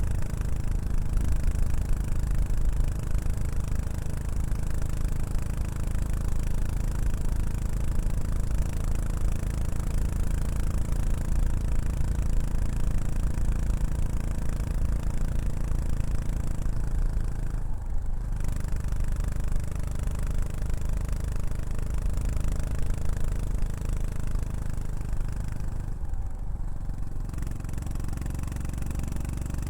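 Yamaha SR400's air-cooled single-cylinder four-stroke engine running through a Prunus aftermarket muffler, a steady low exhaust note that eases off briefly about two-thirds of the way in and again near the end.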